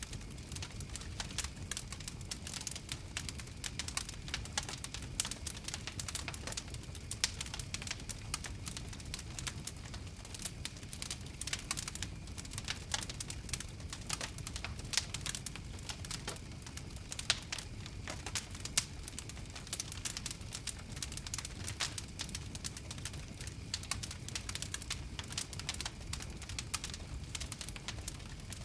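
Wood fire crackling: a dense, irregular scatter of sharp pops and snaps over a low steady rumble.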